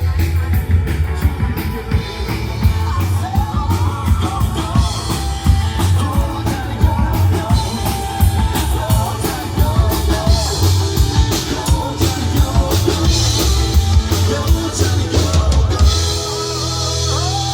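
A live rock band playing, with a drum kit, bass and a singing voice. The drums stop near the end.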